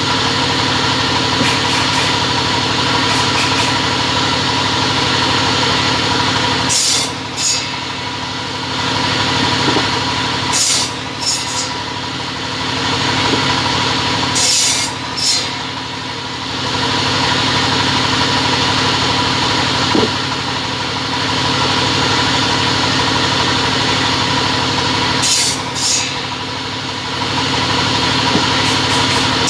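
Two-head cutting machine running with a steady motor hum and a whine. A few short bursts of high-pitched, rasping noise stand out over the hum, four times.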